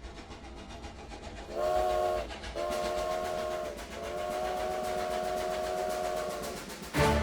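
Train sound effect: a fast, even rhythmic clatter of a moving train with three blasts of a multi-note train whistle, short, medium, then long. Music starts near the end.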